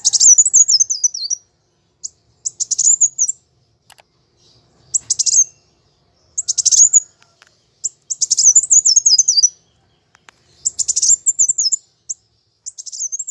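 Kolibri wulung sunbird singing its aggressive 'fighting' song: repeated bursts of fast, high chirping twitters, each about a second long and falling in pitch, with short gaps between them.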